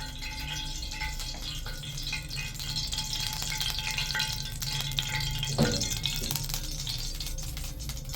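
Food sizzling and crackling in hot oil in a frying pan, the oil already very hot, with some stirring.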